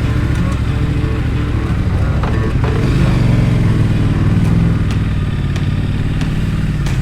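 Motorcycle engine running under way, a steady low drone with road and wind noise, swelling slightly in the middle.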